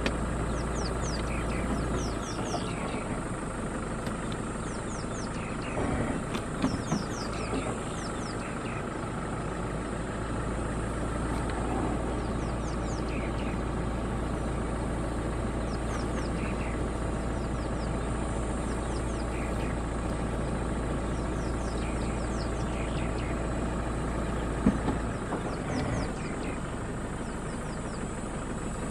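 A vehicle engine idling steadily, with a constant high-pitched buzz and groups of short, falling high chirps repeating over it. There are a few soft knocks about six seconds in and one sharp knock near the end.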